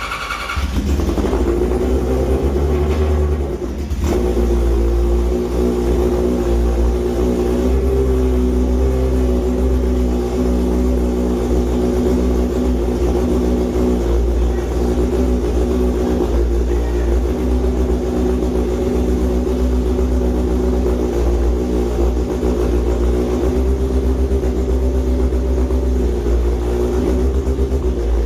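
An engine running steadily at an even speed, with a deep rumble under it, dipping briefly about four seconds in.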